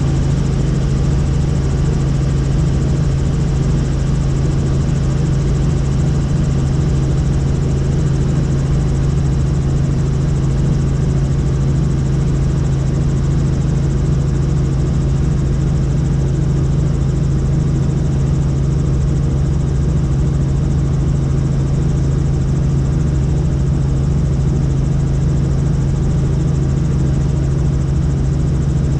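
Helicopter in steady flight: a loud, unchanging drone of rotor and engine with a strong low hum.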